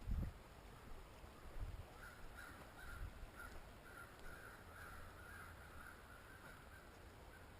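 A bird calling in a long series of short, repeated notes, about two a second, starting about two seconds in. A low bump sounds at the very start.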